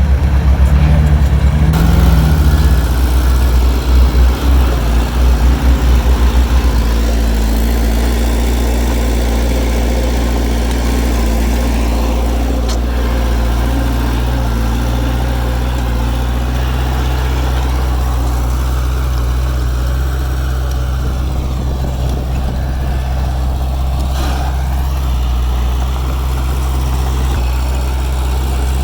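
Heavy diesel engine of earth-moving machinery running, its sound pulsing unevenly for the first several seconds and then settling to a steady idle-like drone.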